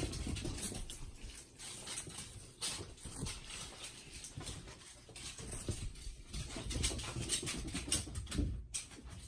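A kitten scampering and playing, with irregular patter and scuffling of paws and small objects.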